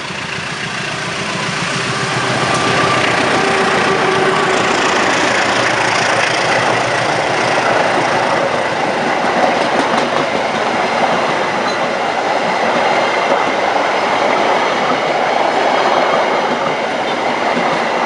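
A train passing close by: the noise of wheels on the rails builds over the first few seconds, then stays loud and steady as the carriages go past.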